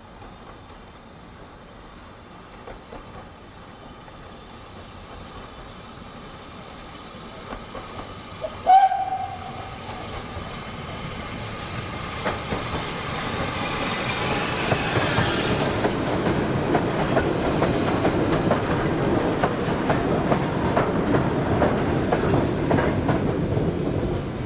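A steam-hauled train approaching and passing, growing steadily louder to a close clatter of wheels over rail joints before it eases off. A brief whistle toot sounds about nine seconds in and is the loudest single sound.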